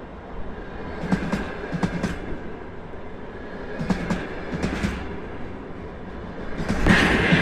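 Container freight wagons rolling past, their wheels clacking over rail joints in clusters of clicks about every three seconds over a steady rumble. It grows louder near the end, with a steady high squeal.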